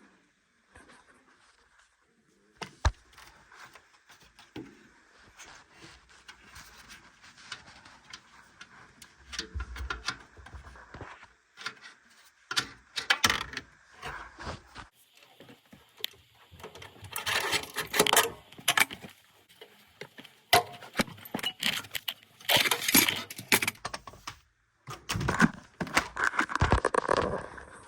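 Metal clinks, clicks and scraping of hand tools and washer parts as the drive motor is unbolted and worked loose from the washing machine, with louder stretches of rattling and scraping in the second half.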